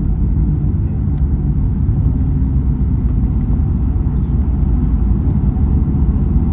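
Steady low cabin rumble of a Boeing 737-800 in flight: the engines and airflow heard from inside the passenger cabin.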